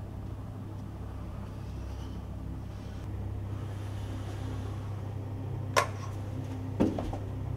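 A steady low engine-like hum, with two sharp knocks about a second apart near the end.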